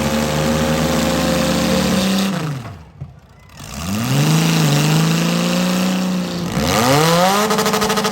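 Compact demolition-derby car engine revving, its pitch rising and falling; about two and a half seconds in the sound falls away briefly, then the engine revs back up and holds high before easing off near the end.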